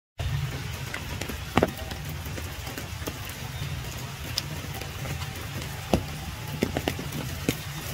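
Wet outdoor ambience in the rain: a steady low rumble with scattered sharp drips and taps, after a split-second dropout at the very start.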